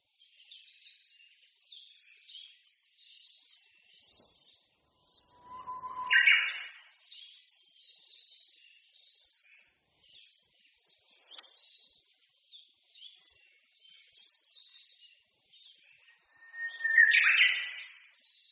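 Songbirds singing in a spring forest: a steady chorus of small, high twittering songs. Twice, about 6 seconds in and again near the end, a much louder bird closer by sings one held whistle that breaks into a quick, higher flourish.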